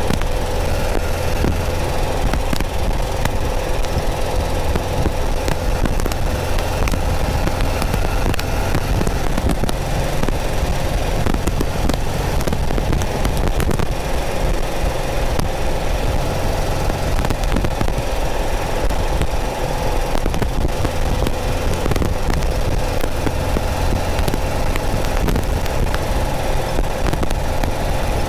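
Porsche 914's air-cooled 2.0-litre flat-four engine running at a steady cruise, its pitch holding level, with road and wind noise of the open car and a scattered crackle of sharp clicks over it.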